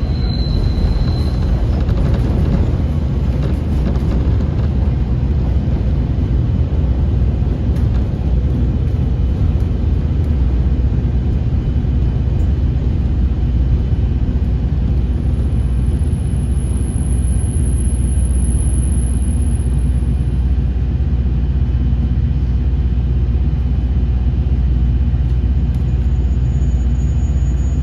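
JR KiHa 40 series diesel railcar underway, heard from on board: a steady low rumble of the engine and the wheels on the rails.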